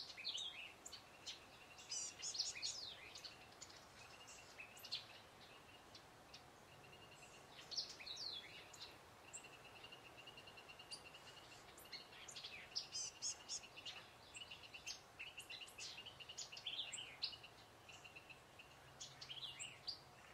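Small songbirds chirping throughout, in many short calls, with a rapid even trill now and then, over a faint outdoor background.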